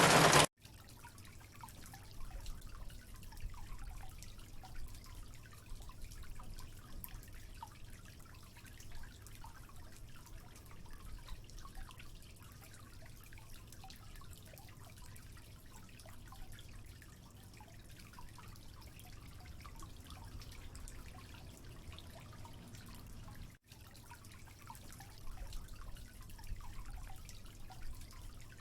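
Water dripping and trickling quietly as many small scattered drops, over a steady low rumble, with a split-second break near the end.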